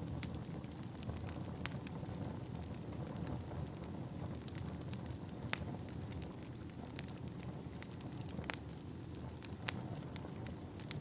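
Wood fire burning in a fireplace, a steady low rumble of flame with irregular crackles and sharp pops from the burning logs, a few pops louder than the rest.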